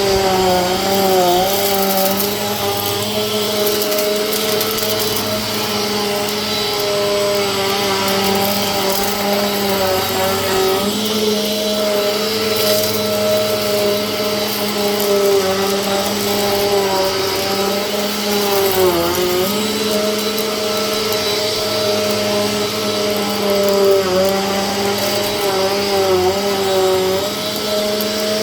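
Vacuum cleaner running steadily, its motor pitch dipping briefly now and then.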